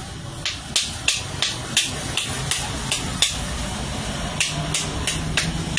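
Hammer strikes in a quick run, about three a second, pausing briefly about halfway through and then going on.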